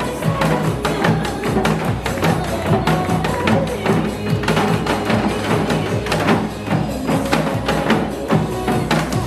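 Janggu, Korean hourglass drums, struck with sticks in a steady rhythm along with a recorded song backing track.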